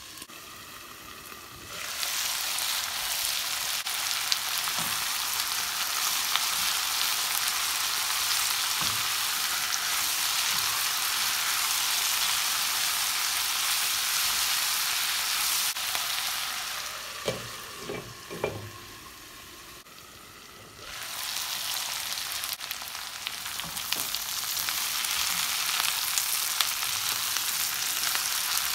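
French beans and sliced onions sizzling in hot oil in a frying pan as they are stirred with a silicone spatula. The sizzle is muffled under the glass lid for the first two seconds, then goes loud and steady; about two-thirds through it drops for a few seconds with a few soft knocks before the loud sizzle returns.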